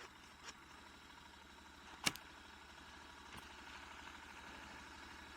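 Motorcycle engine idling with a steady low pulse, and one sharp click about two seconds in.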